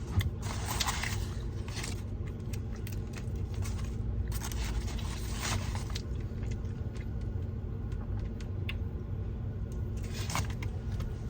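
Eating sounds from a chicken burrito: a few short bursts of wrapper rustling and chewing over a steady low hum.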